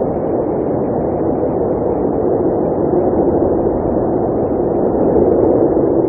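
Blizzard wind blowing steadily, a dense, low rushing noise without breaks.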